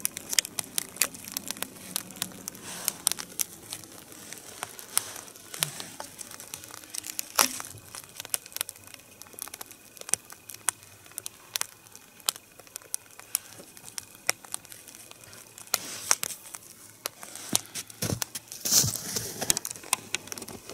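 Wood fire of a three-log nodya crackling as it catches, with irregular sharp snaps and pops over a faint hiss, and a louder burst of crackling near the end.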